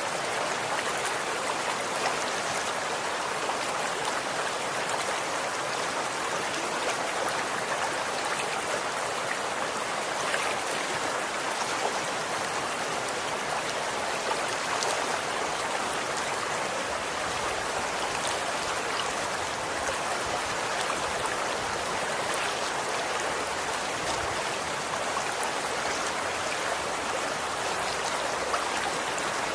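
Running water, a stream flowing and splashing steadily with fine, irregular droplet patter.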